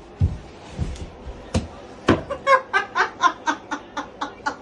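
A few dull thumps, then a person laughing in quick, even bursts of about four to five a second from about two seconds in.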